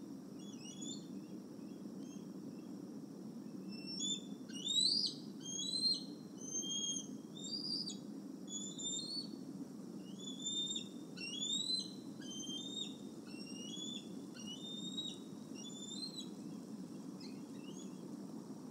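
Birds calling: a quick run of short, high chirping whistles, many rising in pitch, thick in the middle of the stretch and fading out near the end, over a steady low background hum.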